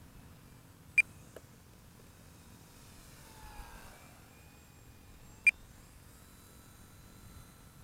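Two short, high electronic beeps about four and a half seconds apart over a low steady hiss.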